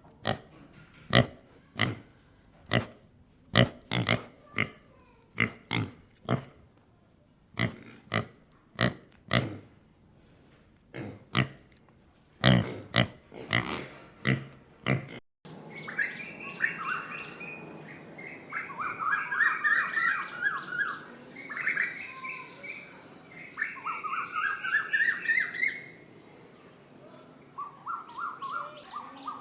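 A series of short, sharp animal calls, about two a second. About halfway through it cuts to a bird chirping in quick, repeated trills, some of them rising.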